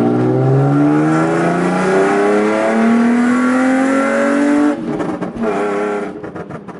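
BMW E36 engine pulling under acceleration, its note rising steadily for about four and a half seconds, then dropping away and fading near the end as the driver shifts or lifts off.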